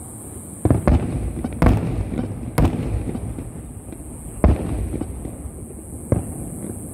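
Aerial firework shells bursting overhead: about six deep booms at uneven intervals, with a rolling rumble of echo between them.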